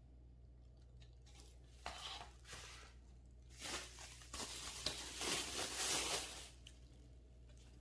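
Plastic packaging rustling and tearing as a part is unwrapped, in irregular bursts that grow louder from about three and a half seconds in and stop about a second before the end.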